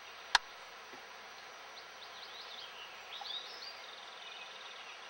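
Streamside evening ambience: a steady hiss of insects and outdoor background, with a small songbird chirping and then trilling from about a second and a half in. A single sharp click about a third of a second in is the loudest sound.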